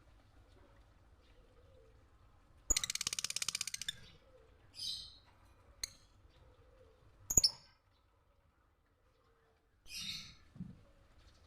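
Lovebird calling: a loud, rapid rattling chatter lasting about a second, followed by a few shorter chirps, with a couple of sharp clicks in between.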